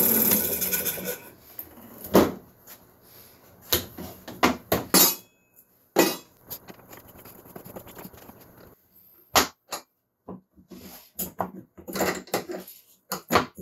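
A power tool running stops about a second in. It is followed by scattered knocks and clatters of wooden pieces and tools being handled on a workbench.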